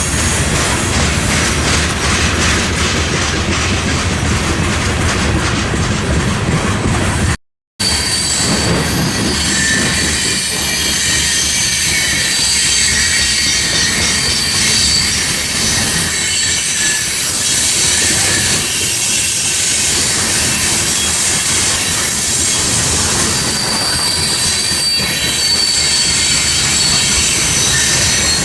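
Freight train rolling past at close range, wheels clicking over the rail joints over a heavy rumble. A brief cut to silence comes about seven seconds in, after which thin, high-pitched wheel squeal rides over the rolling noise.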